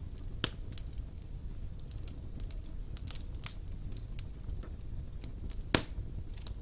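Wood fire burning in a fireplace: a steady low rumble of flames with scattered sharp crackles and pops from the burning logs, the loudest pop near the end.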